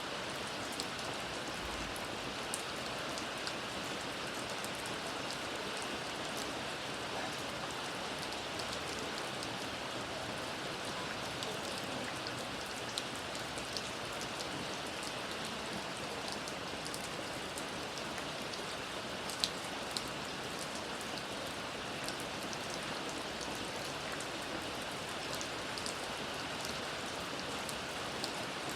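Steady rain falling, with many individual drops ticking sharply on a surface; one drop hits louder a little past two-thirds of the way through.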